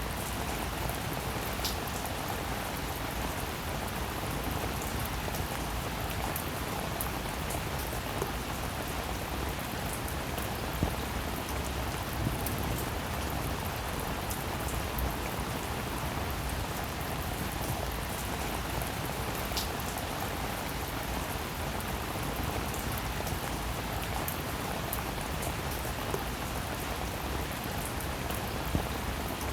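Steady rain falling, with a few louder single drops ticking out now and then.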